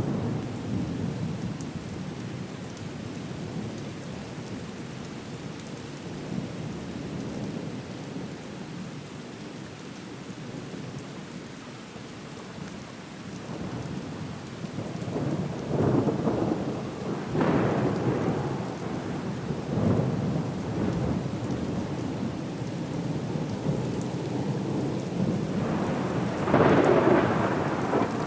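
Storm at sea: steady rain with a deep rushing rumble, rising to loud swelling surges about halfway through and again near the end.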